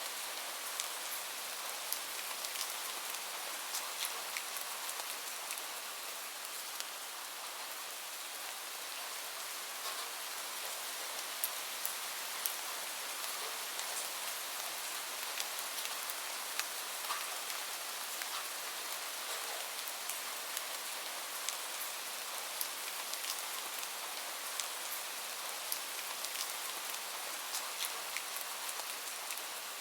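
Gentle steady rain mixed with a crackling wood fire: a constant hiss with scattered sharp pops and ticks, irregularly spaced.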